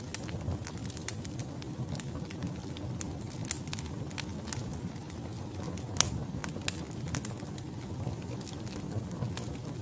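Wood fire burning in a fireplace: a steady low rumble of flames under irregular sharp crackles and pops from the logs, the loudest pop about six seconds in.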